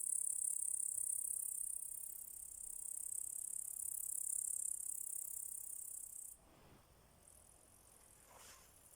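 Grasshoppers chirring in a steady, high-pitched, shimmering buzz that stops suddenly about six seconds in, leaving a few faint soft rustles.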